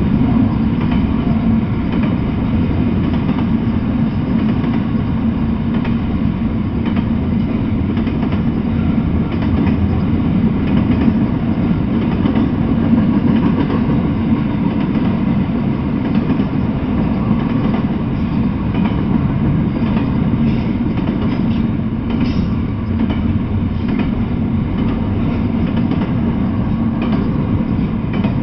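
Double-stack container freight train rolling past at steady speed: a continuous low rumble of steel wheels on rail, with light clicking from the wheels running over the track.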